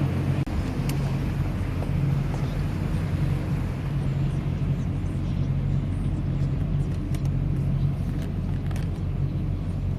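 Tour boat's motor running steadily on board, a low even hum.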